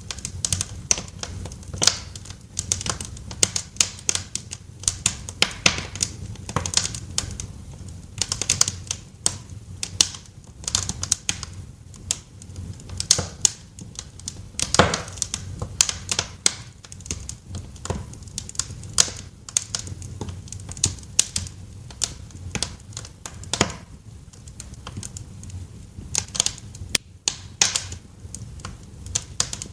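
Wood fire crackling in a fireplace: irregular snaps and pops over a low steady rumble, with one louder pop about halfway through.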